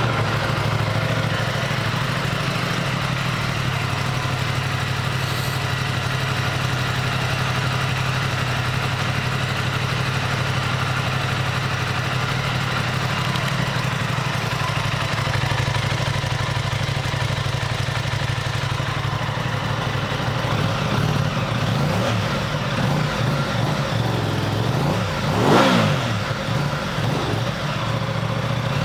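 2021 Aprilia RS660's parallel-twin engine idling steadily just after starting, then revved in a few short throttle blips near the end, the biggest one about three-quarters of the way through.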